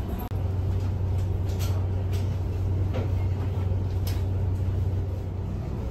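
Steady low hum of a train car's interior, with a few faint clicks. The sound drops out for an instant just after the start.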